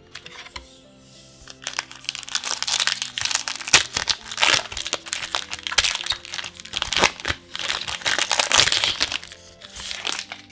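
Foil booster pack wrapper crinkling and crackling loudly as it is handled and torn open, with many sharp crackles, starting about a second and a half in and stopping shortly before the end. Background music plays underneath.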